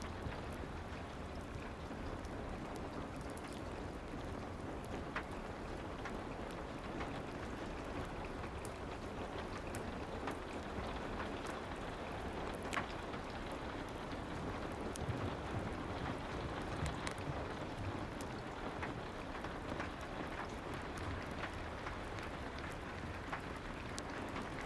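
Soft rain falling steadily, mixed with a fireplace crackling, with scattered small pops through the steady hiss.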